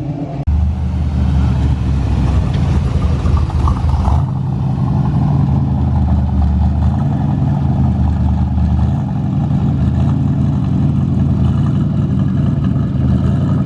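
Car engine running nearby with a steady low rumble that deepens and eases every few seconds.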